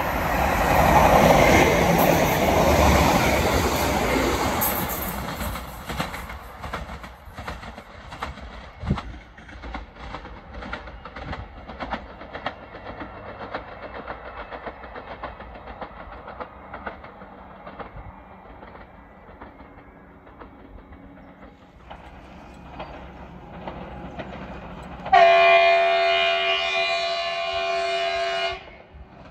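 A Greater Anglia Class 755 bi-mode train runs past. Its noise rises and fades over the first few seconds, then light wheel clicks over the rails carry on. Near the end an approaching Class 755 sounds a long horn blast, a chord of several notes held about three seconds and cut off sharply.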